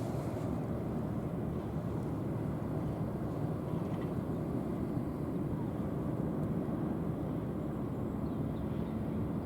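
Steady low rumble of a cross-Channel ferry's engines, even throughout with no changes.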